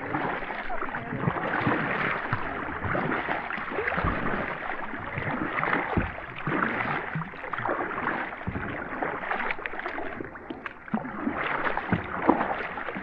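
Kayak paddles dipping and splashing in the water as the kayak is paddled along.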